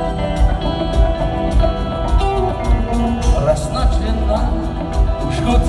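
Rock band playing an instrumental passage between sung verses, with a steady drum beat under sustained chords; a wavering melodic line joins about halfway through.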